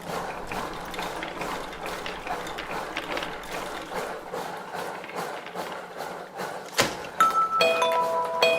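Rapid, irregular ticking of an aari hook needle punching in and out of fabric stretched taut on an embroidery frame. Near the end there is a sharp click, then chiming bell-like music notes begin.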